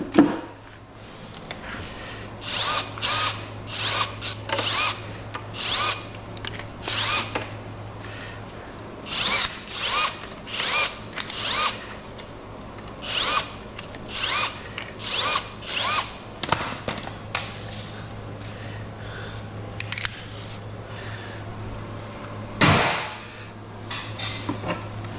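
Power drill run in short bursts, about twenty quick whirs, while an air conditioner is taken apart. A steady low hum lies underneath, and there is one louder clunk near the end.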